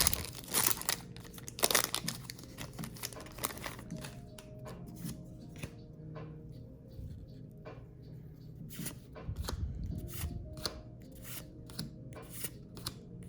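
Foil wrapper of a Pokémon trading card booster pack being torn open and crinkled, followed by the cards being slid and flicked one at a time, a quick run of short swishes and clicks.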